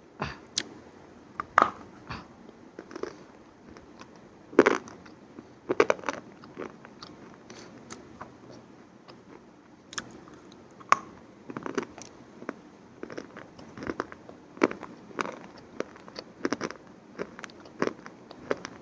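Close-miked crunching and chewing of crisp food: sharp, crackling crunches at irregular intervals, with the loudest around a second and a half in and about four and a half seconds in.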